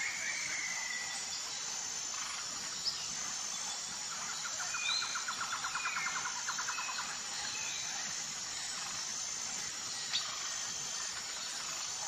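Wild birds calling over a steady high background hiss: a fast trill of rapidly repeated notes in the middle, with scattered short chirps around it. Two brief sharp clicks stand out, one near the start and one near the end.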